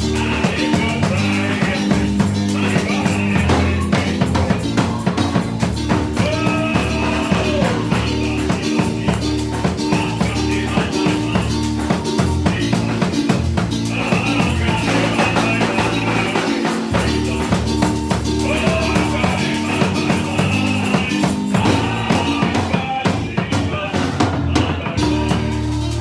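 Church worship music: a band with drums, bass and tambourine keeping a steady beat, and voices singing in phrases of a few seconds.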